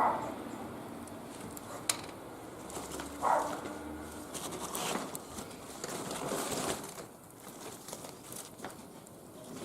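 Wood fire crackling, with scattered sharp pops, and a brief animal call about three seconds in.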